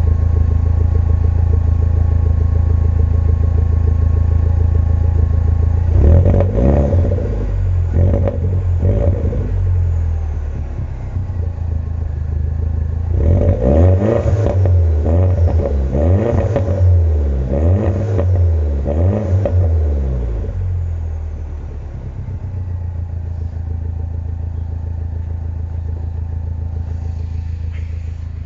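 R56 Mini Cooper S turbocharged four-cylinder petrol engine, still cold, idling and then blipped up to about 3,000 rpm, heard from the rear of the car. A few short revs about six seconds in, then a longer string of blips around the middle, after which it settles back to a steady idle.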